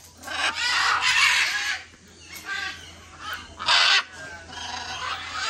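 Birds squawking: a long harsh call of about a second and a half, then shorter loud calls, the loudest near the end.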